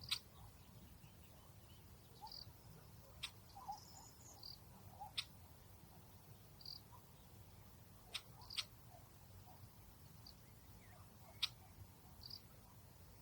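Faint outdoor nature ambience over a low steady rumble, with scattered short, high chirps and about five sharp clicks spread through it.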